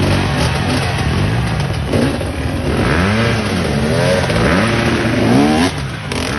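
Racing vehicle engine revving up and down several times in quick succession, its pitch rising and falling over a steady rumble, strongest in the second half.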